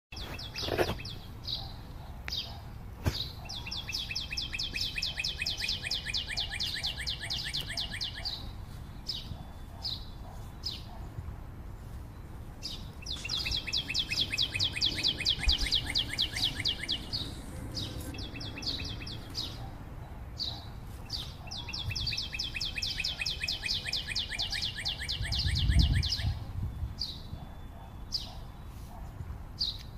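A songbird singing a rapid trill of even, high notes about four seconds long, repeated three times roughly nine seconds apart, with short separate chirps in between. A brief low rumble comes near the end.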